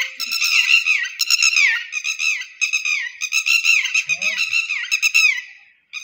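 A bird calling close by: a rapid, nearly continuous run of high chirps, many sliding downward, breaking off briefly near the end.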